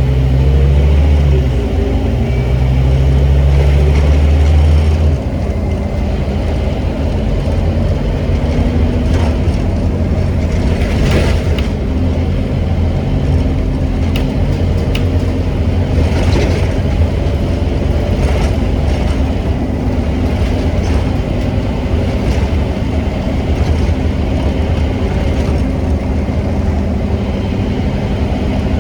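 Scania N270UD OmniCity bus's diesel engine pulling hard under kickdown, heard from on board. About five seconds in, the engine note drops suddenly as the automatic gearbox changes up, and it then runs on steadily with road noise and a few brief knocks and rattles.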